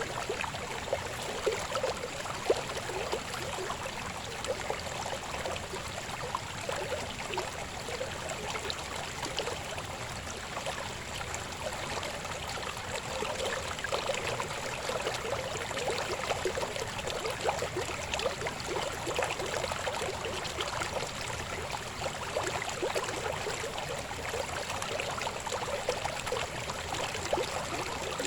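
Shallow river babbling and gurgling over rocks in a steady, continuous flow.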